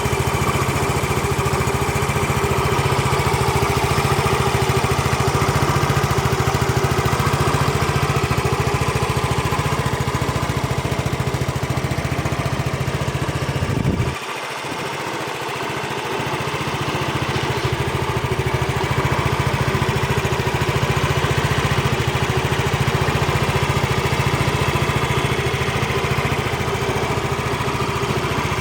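Yamaha XC 115 Delight scooter's small single-cylinder four-stroke engine idling steadily. About halfway through the sound drops suddenly, its low hum dropping out, then builds back up over a couple of seconds.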